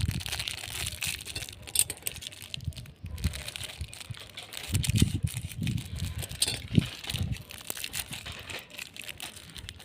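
Crinkly plastic wrapping being handled and pulled open, a dense crackling with a few soft knocks in the middle.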